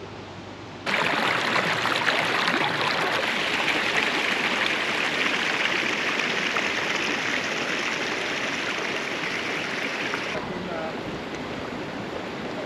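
Stream water rushing over rocks, a steady even hiss that starts abruptly about a second in and drops to a quieter flow near the end.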